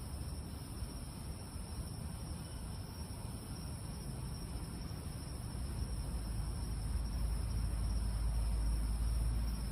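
Steady high-pitched chorus of night insects such as crickets, with a low rumble swelling in underneath from about halfway through.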